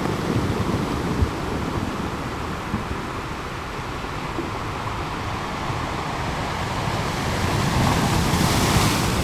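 Sea waves washing onto a rocky beach in a continuous surging wash, swelling to a louder breaking wave near the end.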